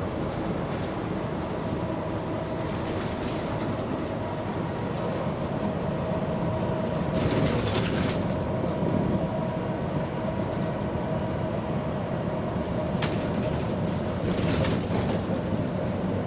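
Bus running along the road, heard from inside: a steady mix of engine and road noise with a faint whine. There are two brief bursts of hiss, about seven seconds in and again about fourteen seconds in.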